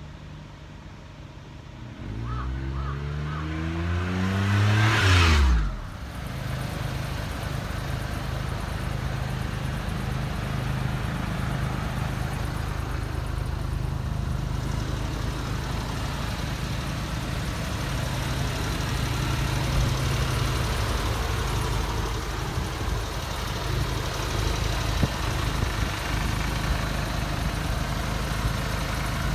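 Small three-cylinder engine of a 1994 Suzuki Every kei van running. About two seconds in it revs up steadily for a few seconds, drops sharply back to idle, and then idles steadily.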